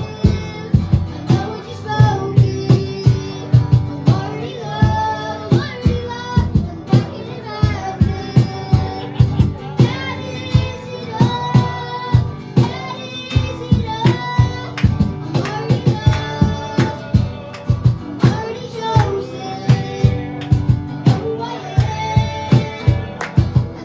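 Worship band playing a song with sung vocals over a steady drum beat.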